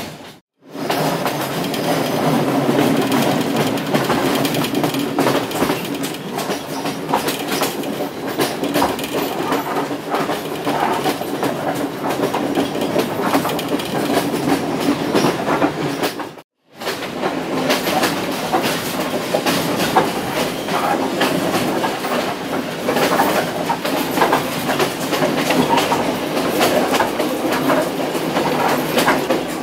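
Romanian Astra-built observation saloon coach running along the track, heard from inside: a steady rumble with a constant clatter of wheels on the rails and rattling of the coach. The sound drops out to silence for a moment twice, about half a second in and about sixteen seconds in.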